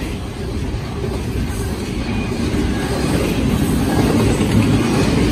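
Doublestack intermodal train's container-laden well cars rolling past, a steady low rumble of steel wheels on rail that grows louder after about three seconds.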